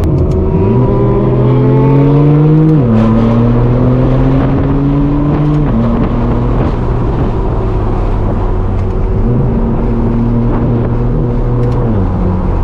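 Straight-piped BMW M4 F82 twin-turbo inline-six pulling under acceleration, its pitch climbing and then dropping sharply at dual-clutch upshifts about three and six seconds in. It then holds a steadier note and climbs again, with another shift near the end.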